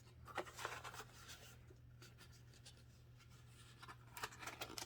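Faint rustling and light handling noises from items being moved about inside an opened subscription box, a little louder about half a second in and again near the end, over a steady low hum.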